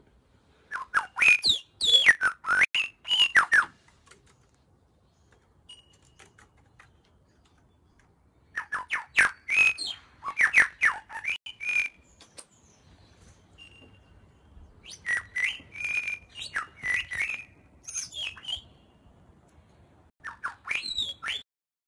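A songbird singing loud, varied whistled phrases with quick up-and-down glides, in four bouts separated by pauses of a few seconds.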